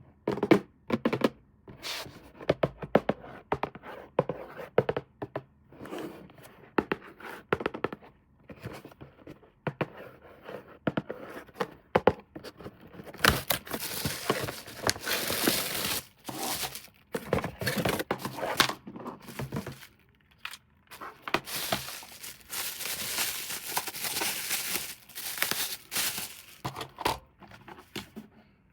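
Toy packaging being handled and torn open: short knocks and rustles at first, then two long spells of tearing, one near the middle and one later on.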